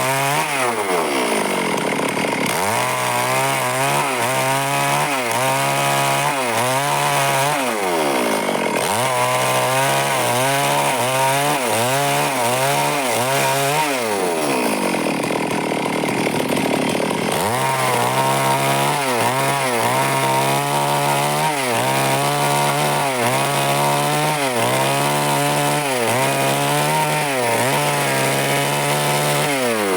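Stihl chainsaw cutting wood, its engine pitch rising and falling over and over, with quicker swings of about one a second in the second half.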